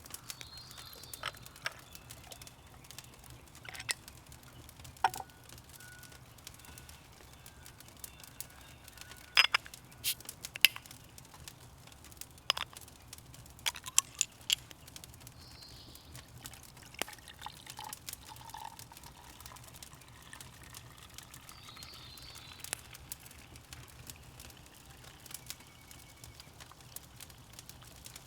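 Scattered sharp clicks and snaps at irregular intervals, thickest about a third to halfway through, over a quiet outdoor background with a few faint bird calls.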